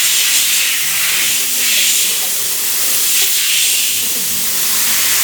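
High-pressure water jet spraying on a car's engine bay: a loud, steady hiss that swells and eases every second or so as the spray is swept about.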